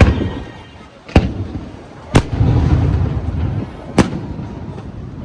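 Fireworks exploding: four sharp bangs, the first three about a second apart and the fourth about two seconds later, each followed by a low rumbling echo.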